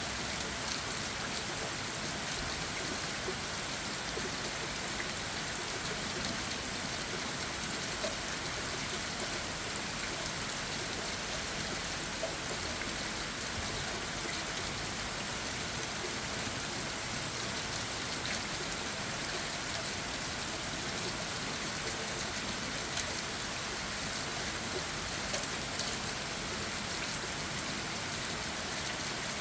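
Steady rain falling on leaves and ground, an even hiss with scattered individual drop taps.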